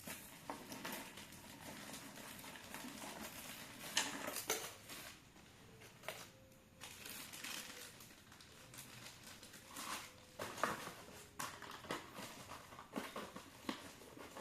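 Handling noise while unpacking a hanging lamp: irregular light knocks, clicks and rustling of packaging and parts, with sharper knocks about four seconds in and again near ten seconds.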